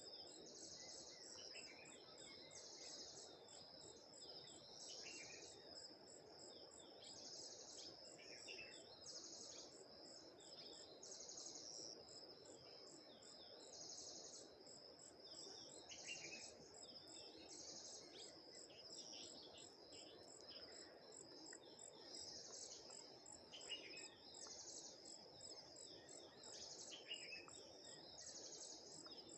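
Faint, steady insect chorus with a high trill that swells in pulses about once a second. Short falling bird chirps come at scattered moments throughout.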